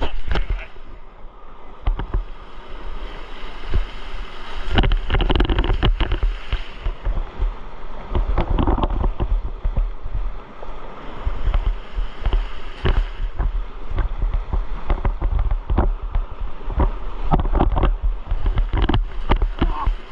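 Water splashing and rushing around a kayak, with irregular short splashes. Wind buffets the microphone throughout as a low rumble.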